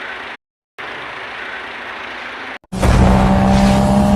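Edited vehicle sound: a steady hiss that cuts out briefly, then an abrupt cut about two and a half seconds in to a much louder motor vehicle sound, with a low rumble under a steady hum and whine.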